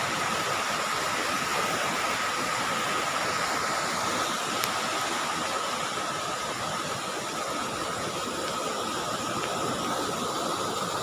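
Steady rushing noise of rain and floodwater, with a thin, steady high-pitched tone running through it.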